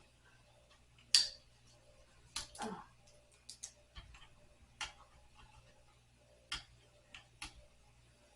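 Irregular clicks and light knocks from a wooden night stand and tools being handled during disassembly, about eight of them, the loudest about a second in.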